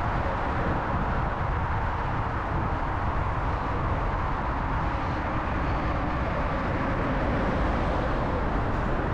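Steady rumble of passing city traffic mixed with wind and road noise from a moving bicycle, with no distinct events.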